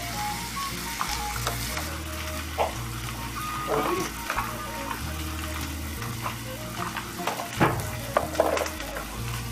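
Beef mince frying in oil in a frying pan: a steady sizzle with scattered sharp pops and crackles.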